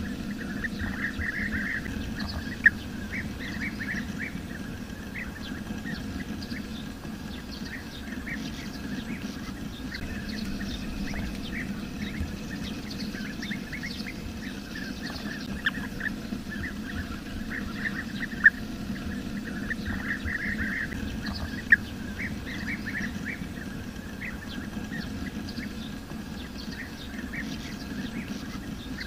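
Bee-eaters calling: bursts of short, rapid chirping notes that come and go in clusters, with a few sharper louder notes among them. A steady low background rumble runs under the calls.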